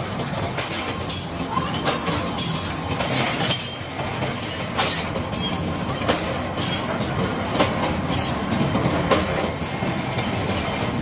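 Workshop clatter of metal work on leaf springs: a steady mechanical din with irregular sharp metal knocks and short rattling bursts every second or two.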